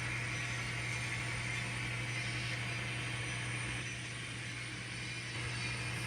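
N scale model train locomotive running with a steady engine rumble and hum, dipping slightly in level about two-thirds of the way through.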